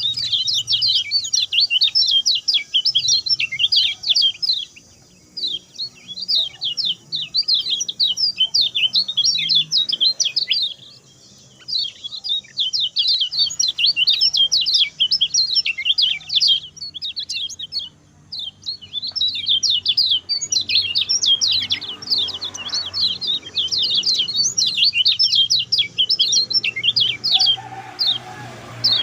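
Kecial kuning songbird singing its fast 'grongsengan' song: long runs of rapid, high, sharp chirps, broken by a few short pauses.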